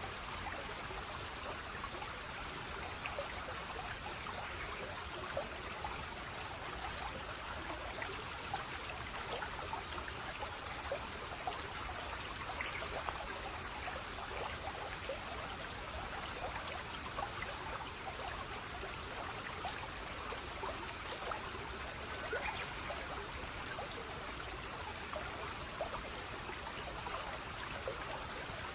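Running water flowing and trickling steadily, with a constant rush dotted with small splashes and drips.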